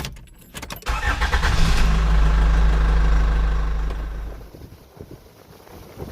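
Dump truck engine running loud and low, with a few knocks in the first second; it fades away after about four seconds.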